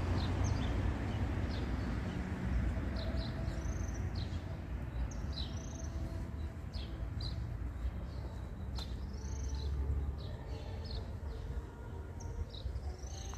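Small birds chirping: many short, sweeping chirps over a steady low rumble.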